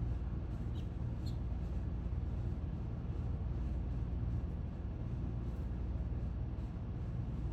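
Steady low rumble of outdoor background noise, with two brief faint high chirps about a second in.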